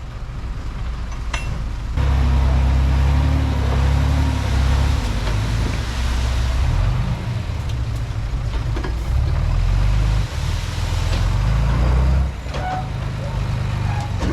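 Bulldozer's diesel engine working under load, steady low engine note with a noisy clatter over it. It gets louder about two seconds in and drops back down about twelve seconds in.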